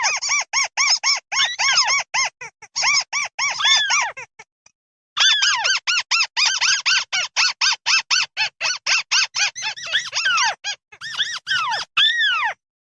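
Flock calls of the bird known in Vietnamese as mắt xéo, a fast run of short, arched, squeaky notes at about five a second. The calls pause for about a second around four seconds in, then resume, and near the end come a few longer down-slurred calls.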